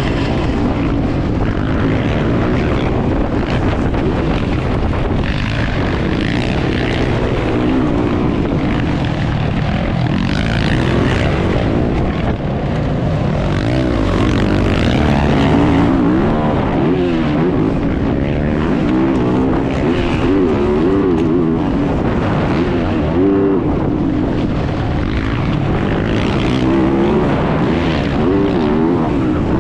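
Motocross bike engine heard from an onboard camera during racing, its revs rising and falling over and over with throttle and gear changes.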